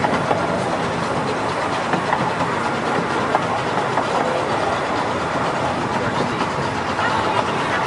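A small zoo train running steadily, with a continuous rattle of its cars.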